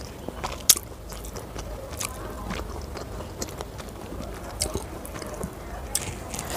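Close-miked chewing of a mouthful of Schezwan fried rice, with wet mouth clicks and smacks, the sharpest click a little under a second in. Fingers squish and scrape through the rice on the plate between mouthfuls.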